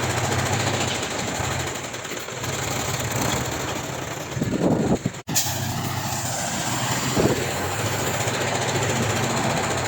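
Diesel engine of heavy earthmoving machinery running steadily under work, with a louder swell near the middle and a sudden brief break just after it.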